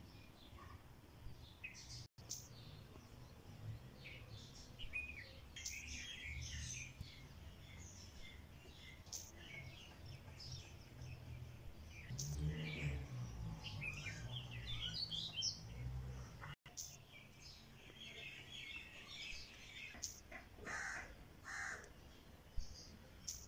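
Birds chirping and calling on and off, some calls harsh like a crow's caw, over a low background rumble that grows louder around the middle.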